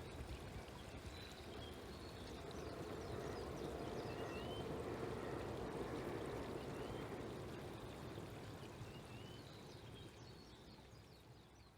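Faint, distant rumble of a 287-series electric limited express passing, swelling about halfway through and then fading away, while small birds chirp now and then.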